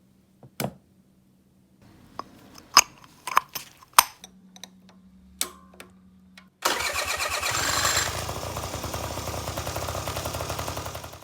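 A few clicks and knocks, then the Honda Leader 50 scooter's small engine starts about six and a half seconds in and runs with a fast, even pulse, revving briefly before settling to an idle.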